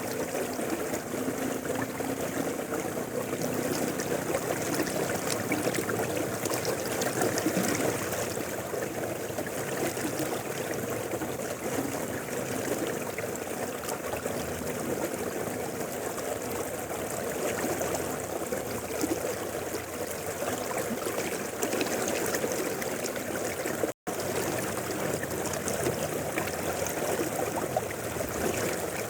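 Mountain river flowing: a steady rushing and babbling of water, with a momentary break in the sound about five seconds before the end.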